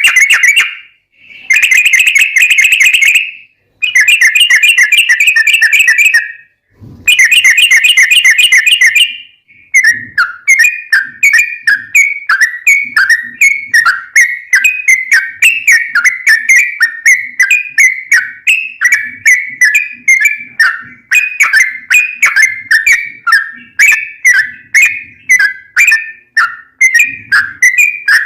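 Yellow-vented bulbul (trucukan) singing: three long, very rapid rolling trills in the first nine seconds, then a quick run of short, repeated whistled notes.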